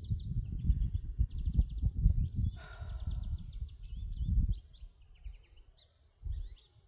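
Songbirds singing quick repeated trills and chirps, several at once, over the uneven low thumps of footsteps on a dirt trail. The steps stop about four and a half seconds in, leaving mostly birdsong, and come back briefly near the end.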